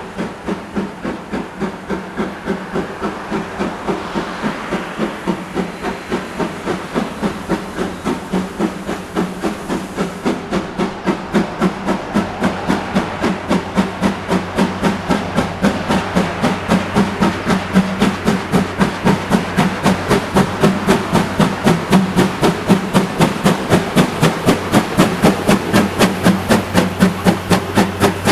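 C11 steam tank locomotive working hard, its exhaust chuffing in a steady, even rhythm with steam hissing, growing gradually louder as it draws nearer.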